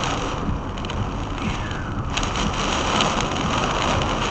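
Steady rushing noise of storm wind and rain against a vehicle, growing a little brighter and more crackly about halfway through.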